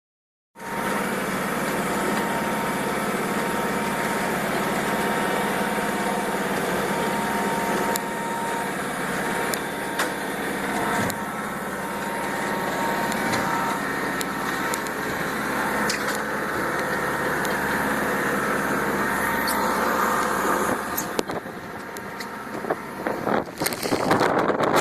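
A boat's engine running steadily under a wash of wind and water noise. Near the end, gusts of wind buffet the microphone.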